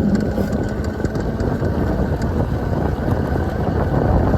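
Wind rushing over the microphone with tyre and drivetrain noise from a small electric dual-sport motorcycle cruising at about 14 mph.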